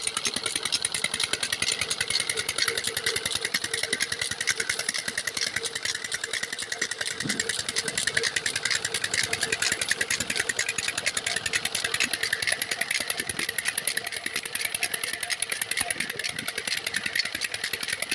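Old Petter stationary diesel engine running at a steady speed, with rapid, even exhaust beats.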